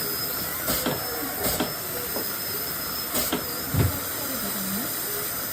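Dental unit equipment hissing steadily, with a thin, slightly wavering high whine and a few sharp clicks or taps.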